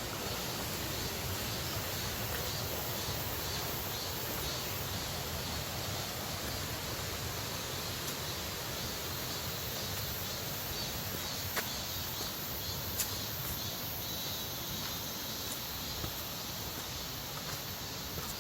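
Steady rushing of a mountain stream, with a few brief sharp clicks.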